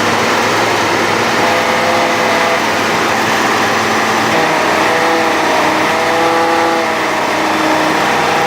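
Heavy machine's engine running loudly and steadily under load, its pitch drifting slightly up and down.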